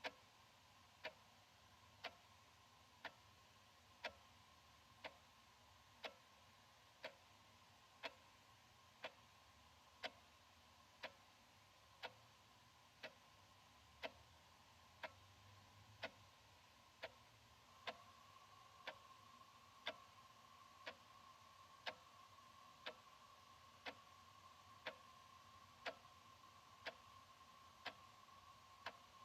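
Analog wall clock ticking steadily, one tick a second, the ticks alternating louder and softer in a tick-tock pattern.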